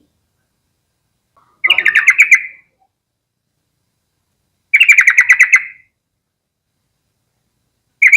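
Yellow-vented bulbul singing: short bubbly phrases of rapid notes, each about a second long, coming about every three seconds, twice in full and a third starting right at the end.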